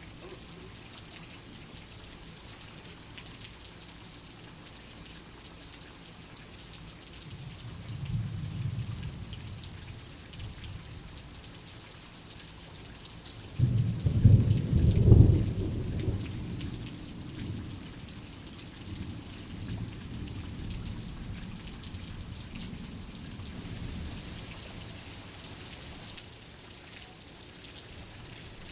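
Steady heavy rain with thunder. A soft rumble comes about eight seconds in, then a loud clap of thunder breaks suddenly around halfway and rolls away over several seconds.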